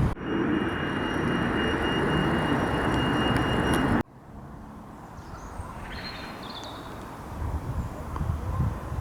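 Steady running noise of a Merseyrail PEP electric multiple unit with a thin high whine, cut off abruptly after about four seconds. Then a much quieter station background with a few faint high chirps.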